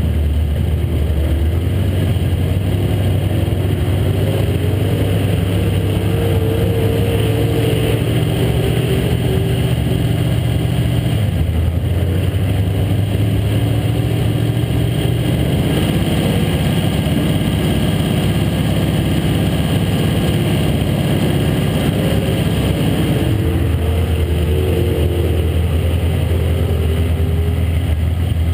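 Late model stock car's V8 engine idling, heard from inside the cockpit, a steady low rumble whose note shifts slightly a few times.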